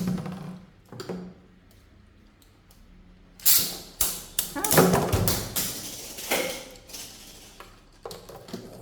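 Plastic-generation Beybladse, Gaia Dragoon V against a second top, launched from ripcord launchers, then the plastic tops clashing and rattling against each other in a burst of sharp hits about halfway through.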